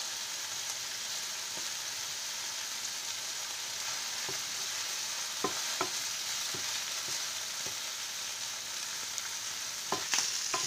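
Chopped rooster giblets and diced onion sizzling in oil in a frying pan, sautéing, with a spatula stirring through them and now and then scraping or tapping the pan, a few times in the middle and again near the end.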